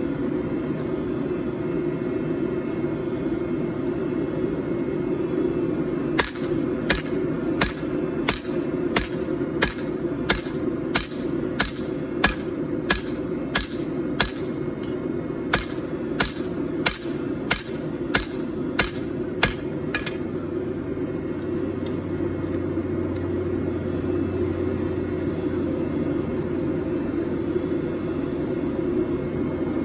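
A 4-pound hand hammer striking hot 4140 steel on an anvil: a steady run of about twenty sharp metallic blows, roughly one and a half a second, as the steel is hammered flat to draw it out. The blows start about six seconds in and stop about twenty seconds in, over a steady low rumble.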